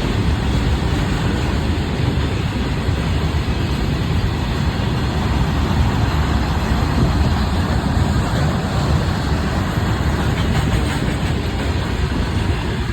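A train running on the rails: a steady, loud rumble that stays even throughout, with no horn.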